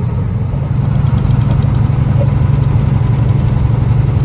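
A semi-truck's diesel engine running steadily as a loud low drone, rising slightly about half a second in.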